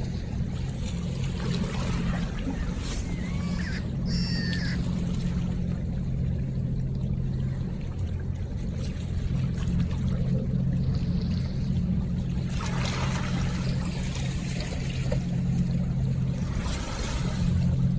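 River water trickling and splashing over a steady low engine hum, with a short bird call about four seconds in and two louder splashes near the end.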